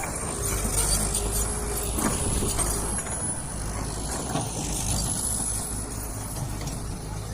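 Diesel engine of heavy earthmoving machinery running steadily at work, with a thin high whine above the low rumble.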